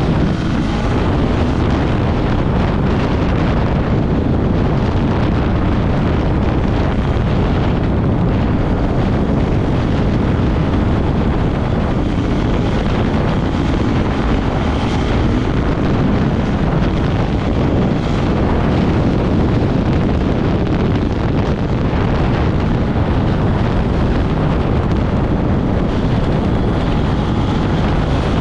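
Off-road vehicle engine running steadily under way, with heavy wind rumble on the microphone.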